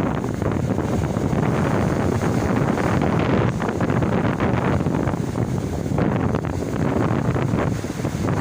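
Strong sea wind buffeting the microphone: a loud, low rumble that swells and dips with the gusts.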